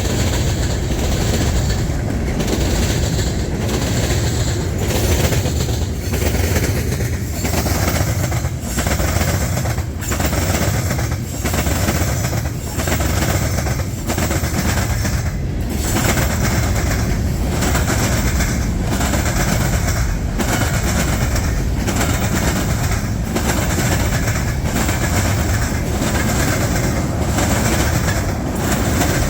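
Freight train cars rolling past, the wheels clacking over the rail joints in a steady, repeating rhythm.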